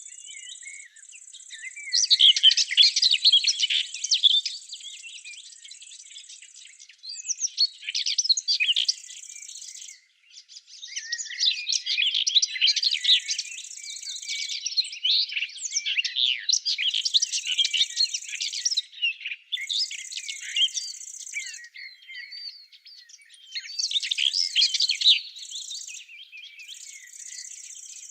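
Several songbirds singing in overlapping bursts of rapid chirps and trills, with a steady high-pitched buzz that starts and stops every second or two.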